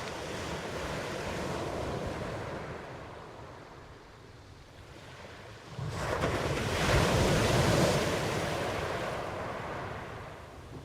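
Ocean waves in surf: the wash of one wave dies away, then a new wave breaks suddenly about six seconds in, swells to its loudest and slowly washes out again.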